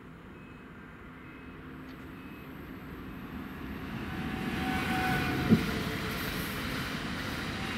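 Regional express electric multiple unit approaching and passing close by, its wheel and running noise building to a steady rush with a faint whine. A single sharp clack comes about five and a half seconds in.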